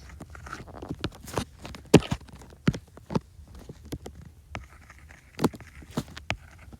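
Irregular sharp taps and clicks of drawing on a device while making animation frames, about one or two a second, the loudest about two seconds in.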